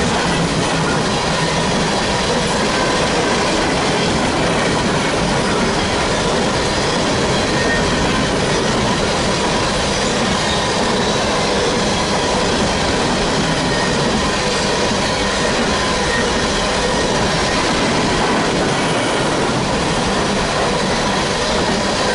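Empty coal hopper cars of a CSX freight train rolling steadily past: continuous steel wheel-on-rail noise with a thin, steady wheel squeal over it.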